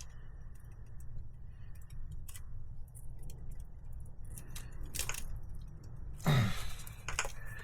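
Scattered small clicks and light metallic rattles of hand tools and wire connectors being handled while wires are twisted and joined, over a steady low hum.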